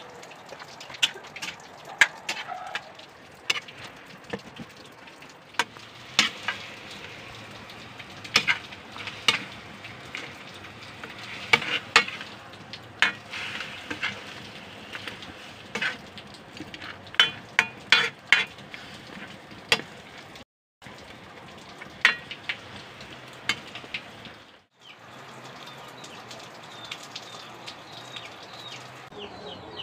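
Chicken adobo sizzling in a pan over a wood fire, a steady hiss with frequent sharp pops and crackles. The sound cuts out briefly twice in the second half.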